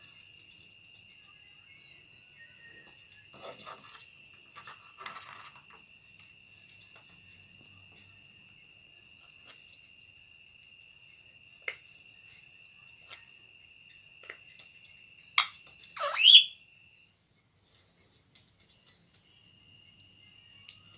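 Pet parrot making small scratching and clicking sounds, then giving one short, loud squawk that sweeps up and down about 16 seconds in. A steady high-pitched tone runs under it and stops briefly after the squawk.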